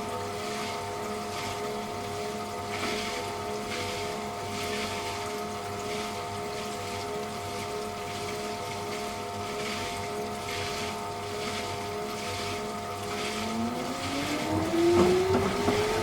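Electrolux Wascator W355H commercial washing machine's drive motor running at a steady speed with a whine of several steady tones. In the last two or three seconds a new whine rises in pitch and gets louder as the drum speeds up.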